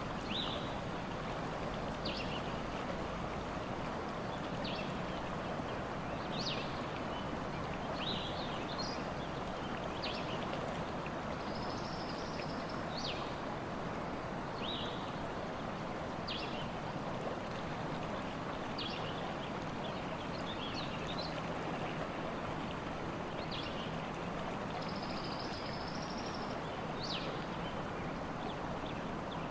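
Forest ambience: a steady rush of running water, with short high bird chirps every second or two and a couple of longer high trills.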